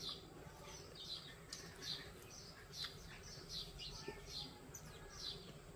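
Small birds chirping faintly: short, high chirps repeated irregularly, roughly one or two a second.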